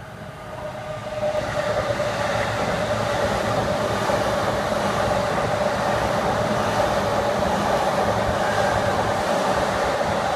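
Electric commuter train running past close by: rolling noise of wheels on rail with a held motor whine, growing louder over the first second or so and then steady.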